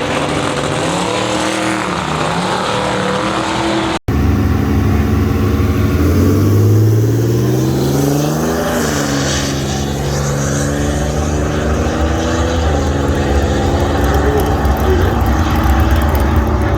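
Vehicle engine running hard on a drag strip. After a brief dropout about four seconds in, its pitch climbs for about three seconds, holds, and steps down near the twelve-and-a-half-second mark.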